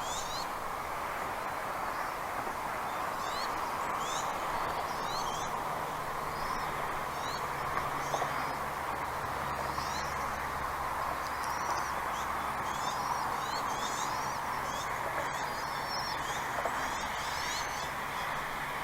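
Short, high bird chirps repeating over a steady rushing background noise, with a low steady hum joining about four seconds in.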